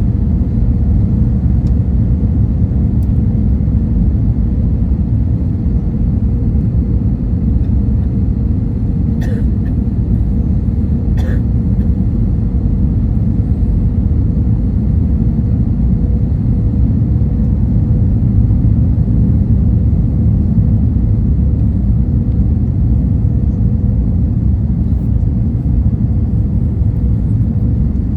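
Steady low rumble of an airliner, with a constant hum and two brief rattles, about nine and eleven seconds in.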